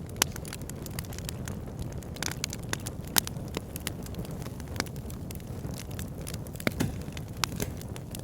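Wood fire burning in a log burner: a steady low roar with sharp irregular crackles and pops of burning logs, the loudest about a third of the way in.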